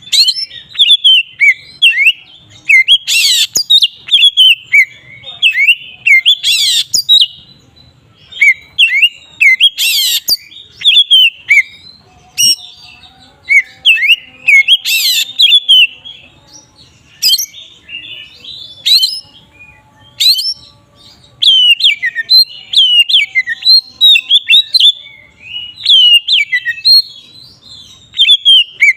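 Oriental magpie-robin singing loud and open (the style called ngeplong): a fast, unbroken run of varied whistled notes, cut every few seconds by short harsh, rasping notes.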